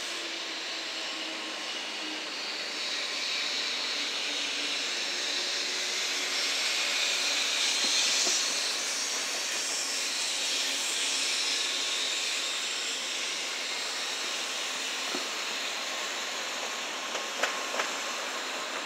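N700-series Shinkansen trainset rolling slowly past at low speed: a steady hissing running noise that swells slightly midway. Two sharp clicks come near the end.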